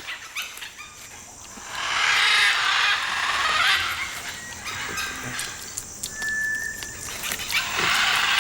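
Harsh, raspy animal squawks in two long bursts, one a couple of seconds in and another near the end.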